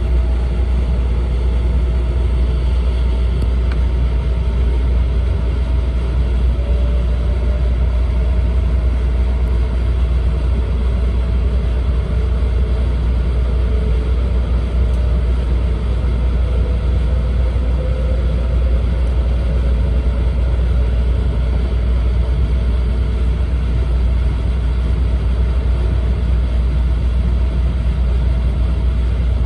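Steady running noise of an E4 series double-decker Shinkansen at speed, heard from inside the passenger car: a deep, even rumble with a rushing hiss over it and a faint whine.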